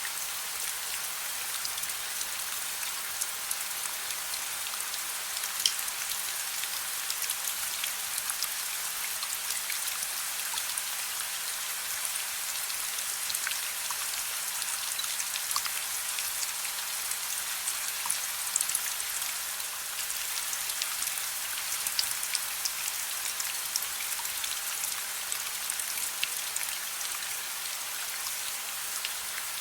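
Steady soft rain: a dense, even patter of drops with occasional sharper drop hits.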